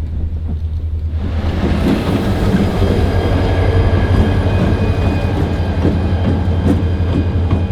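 A diesel-hauled passenger train passing close by, with the locomotive's steady low engine drone under it. About a second and a half in, the rush and clatter of wheels on the rail joints swells and holds, with a faint high squeal from the wheels.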